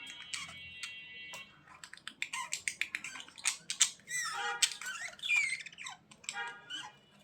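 Budgerigars chattering: a stream of warbling chirps and short squawks mixed with quick sharp clicks.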